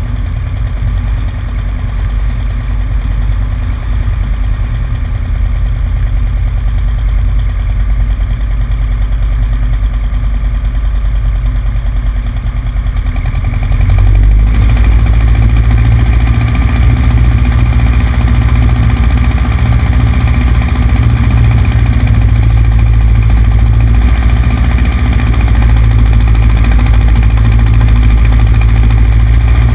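Cessna 150's four-cylinder Continental O-200 engine and propeller running at low power, heard from the wing. About halfway through, power is increased and the engine runs steadily louder.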